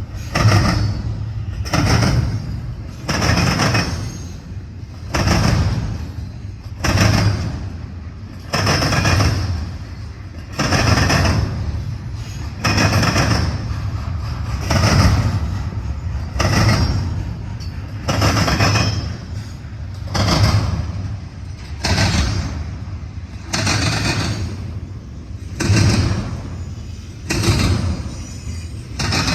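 Intermodal freight train rolling past: its wheels clank over the rail joints in a steady rhythm, about one heavy clunk every two seconds, over a constant rumble.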